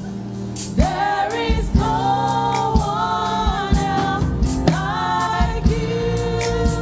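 Gospel praise-team singing with several voices over a band, with drums keeping a steady beat.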